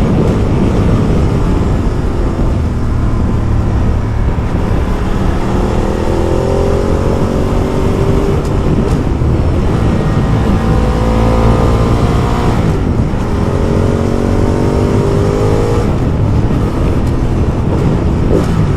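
Ducati Multistrada motorcycle engine under way over heavy wind and road noise, its pitch climbing three times as it accelerates, each climb breaking off at a gear change.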